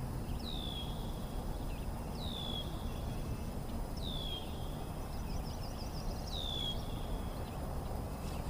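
A bird calling a clear whistle that drops quickly in pitch and then levels off, repeated four times about every two seconds, with a short run of quicker high notes between the third and fourth. A low, steady background noise runs underneath.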